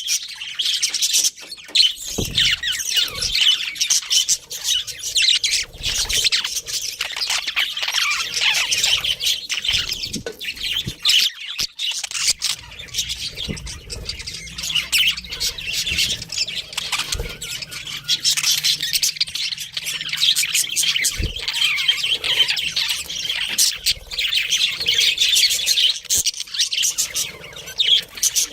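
A pair of budgerigars chirping and warbling without pause in a dense, high chatter, with the odd squawk.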